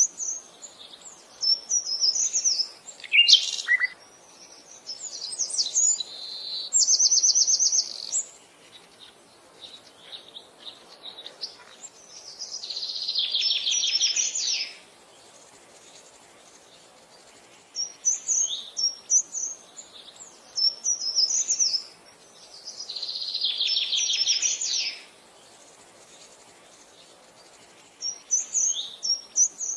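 Songbirds singing: clusters of quick, high chirping notes alternate with long buzzy trills two to three seconds long, the pattern repeating about every ten seconds.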